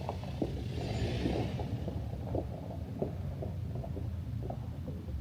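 Low, steady rumble of a car running, with scattered small knocks and a brief hiss about a second in.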